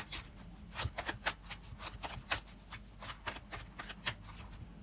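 Tarot cards being handled and shuffled: a run of irregular short flicks and clicks, several a second.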